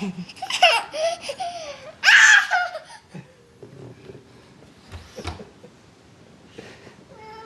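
A toddler laughing and squealing in several high-pitched bursts over the first three seconds, loudest just after two seconds in. Then it goes quieter, with two short knocks about five seconds in.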